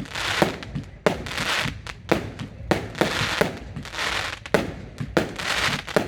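Fireworks going off in quick succession: sharp bangs two or three times a second, each trailed by crackling hiss.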